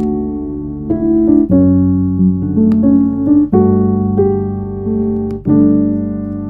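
Soft piano background music, chords and melody notes struck about once a second and left to ring.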